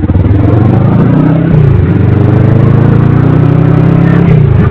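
Kawasaki Vulcan S motorcycle's 649 cc parallel-twin engine running steadily under way. Its pitch dips briefly and recovers twice, about a second and a half in and again near the end.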